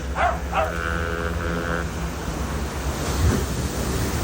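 Wind rumbling on the microphone over ocean surf. Near the start there are two quick falling calls, followed by a brief steady tone.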